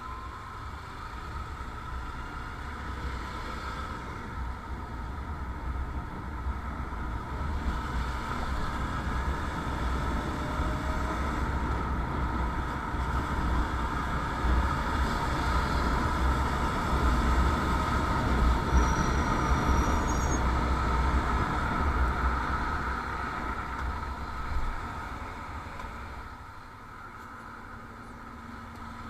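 Steady vehicle and road noise with a low rumble, growing louder to a peak about two-thirds of the way through, then dropping off near the end.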